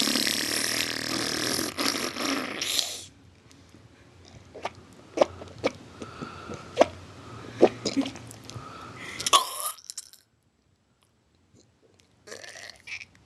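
A person making silly mouth noises: a loud raspy noise for about three seconds, then a string of sharp pops and clicks, a pause, and a short raspy burst near the end.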